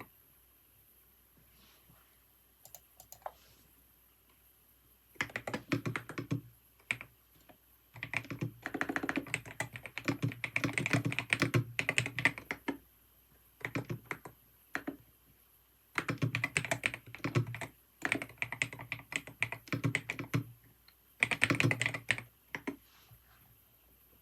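Computer keyboard being typed on in bursts of rapid key clicks with short pauses between them, after a few seconds of only a few isolated clicks.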